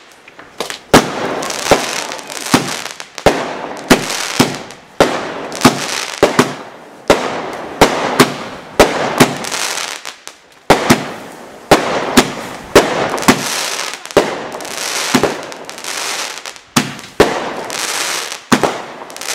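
Brightstar 'Wrath of the Gods' 32-shot firework barrage firing shot after shot, about one sharp bang a second with a short gap midway. Each bang is followed by a fading hiss.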